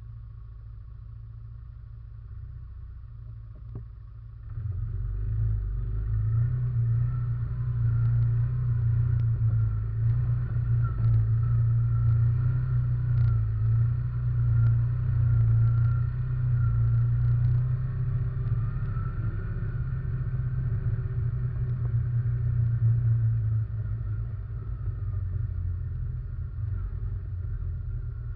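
Russian Mechanics RM 500 ATV engine heard from a camera mounted on the quad: it runs low and steady, then picks up about four and a half seconds in and keeps running under throttle as the quad is ridden.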